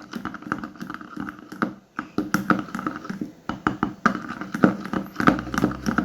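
Hands handling small objects close to the microphone: a run of irregular sharp clicks and taps.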